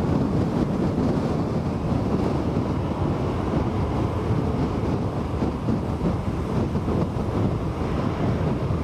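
Strong typhoon wind buffeting the microphone: a loud, steady, gusty low rumble.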